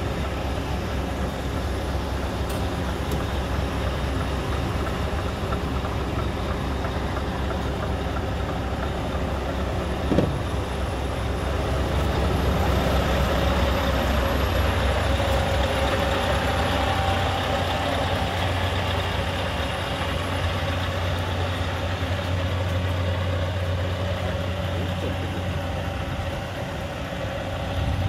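Scania R580 truck's 16-litre V8 diesel engine running steadily at idle, getting somewhat louder for several seconds from about twelve seconds in. A single short, sharp sound about ten seconds in.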